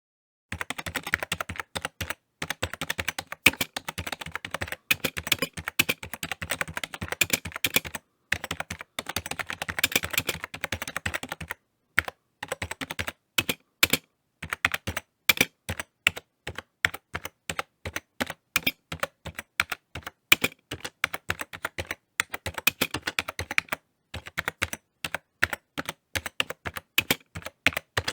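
Typing on a computer keyboard: fast runs of key clicks broken by brief pauses, with slower, more spaced keystrokes for a stretch in the middle.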